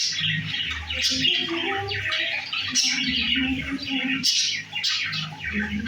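Budgerigars chattering, a steady run of overlapping chirps and squawks.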